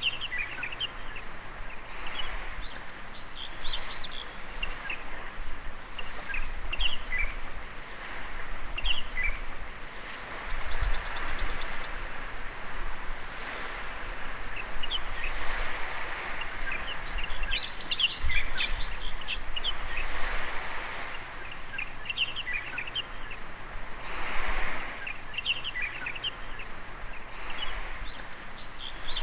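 Gentle surf washing on a beach, swelling and fading every few seconds, with birds chirping and calling throughout; a quick run of high notes comes about ten seconds in.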